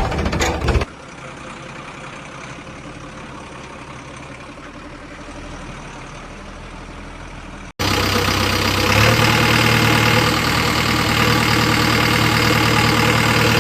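Heavy diesel engines running steadily, heard in edited segments: a loud passage that cuts about a second in to a quieter steady engine hum, then a sudden cut past the middle to a loud steady diesel drone that grows louder about a second later.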